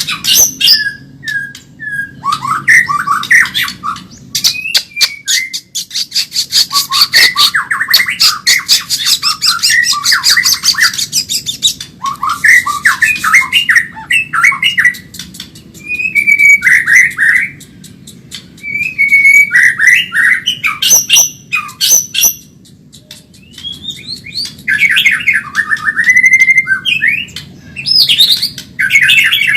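White-rumped shama (murai batu) singing a fast, varied song: whistled phrases that glide up and down, broken by a long run of rapid clicking and rattling notes, with short pauses between phrases.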